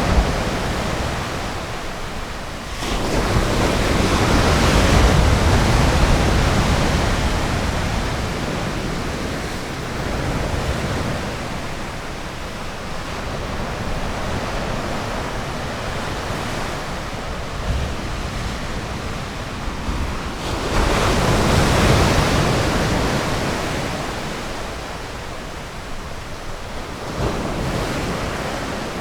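Ocean surf washing onto a beach: a steady rushing wash that surges loudly as a wave breaks about three seconds in and again about twenty-one seconds in, each surge slowly fading away.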